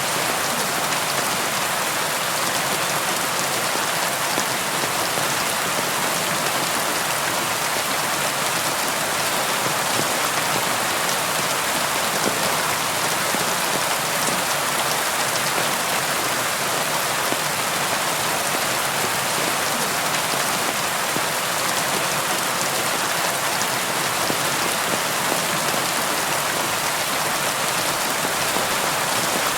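Steady rain falling on a surface: an even hiss flecked with many small drop ticks, with no change in strength and no thunder.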